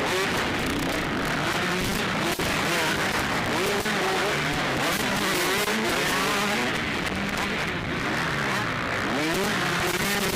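Several motocross bike engines revving up and down, overlapping as the bikes race past, in a harsh, poor-quality recording.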